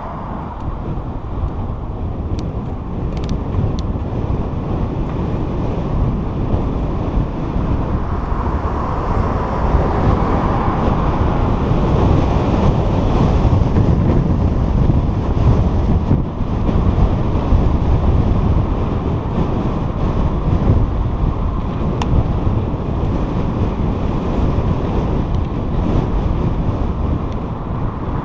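Wind buffeting the microphone during a bicycle ride, a steady low rumble that grows louder about ten seconds in, with a few faint ticks.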